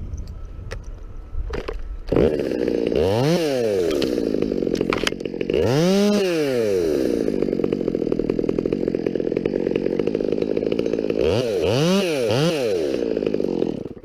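Chainsaw starting up about two seconds in and running, revved up and back down several times, then cut off just before the end.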